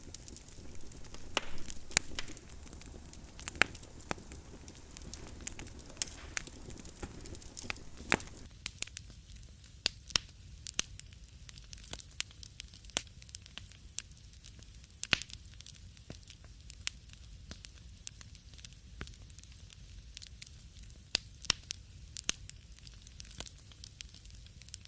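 Wood fire in a fireplace crackling, with irregular sharp pops and snaps. A soft hiss under the pops fades about eight seconds in, leaving sparser crackles.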